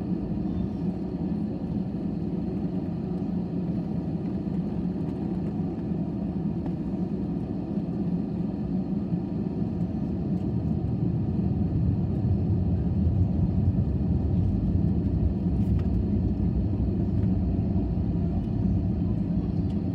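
Jet airliner engine and airframe noise heard inside the passenger cabin: a steady low rumble that grows louder about halfway through and holds.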